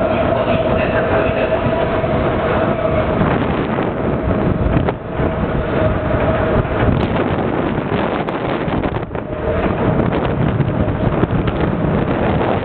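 Electric trains running past on the tracks close by: dense rumbling wheel-on-rail noise with a steady whine that fades about halfway through and comes back near the end.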